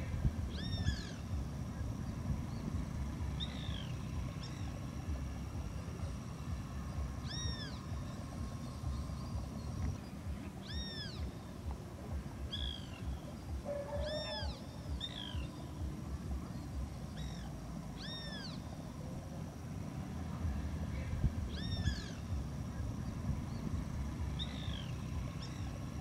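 A bird calling again and again: short calls that rise and fall in pitch, every few seconds, over a steady low rumble.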